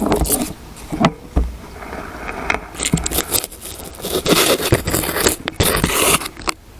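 A camera on a tripod being pushed into a narrow hole: irregular scraping and rustling of the tripod and camera against the sides of the hole, with a few sharp knocks, busiest in the second half.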